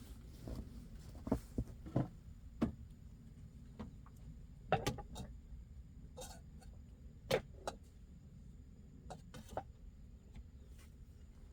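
Irregular sharp knocks and clicks, a second or two apart, over a low steady rumble.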